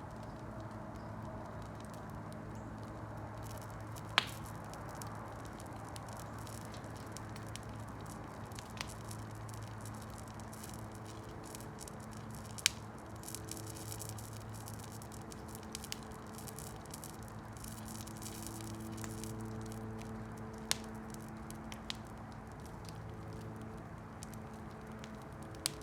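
Campfire burning with a steady soft hiss and occasional sharp pops of burning wood, the loudest about four seconds in, midway and near the end. A faint low hum runs underneath.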